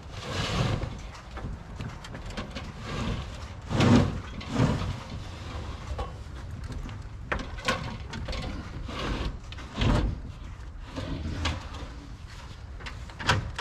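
Scraping and shuffling of building material being slid and shifted into place, with a few sharp knocks.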